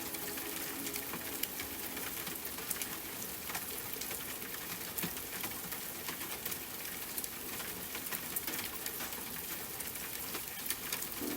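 Steady rain with many separate drops pattering and dripping close by, with no music over it.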